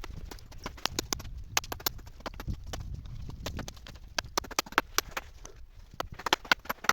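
An irregular series of sharp knocks and clicks, denser and louder near the end, over a low rumble.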